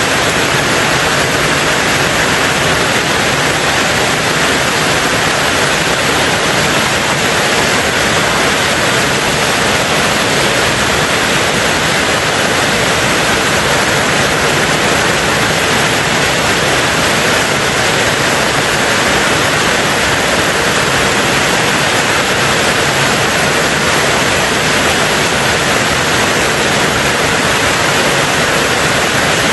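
Rain falling steadily on a tin roof: a dense, even hiss in which no single drops stand out.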